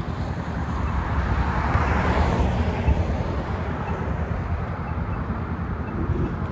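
Road traffic going by: a steady low rumble, with a vehicle passing that swells and fades, loudest about two seconds in.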